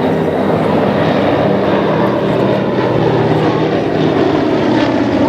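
Propeller airplane engine running steadily and loud.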